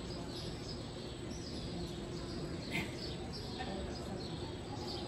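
Small birds chirping again and again with short, high, falling chirps over a steady low hum, with one sharp click about halfway through.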